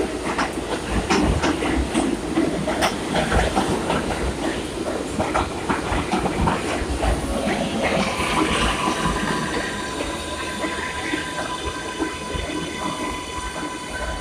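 Kawasaki R142A subway train running on the rails, its wheels clicking over rail joints. From about eight seconds in, a steady whine of several tones joins as the running noise slowly eases.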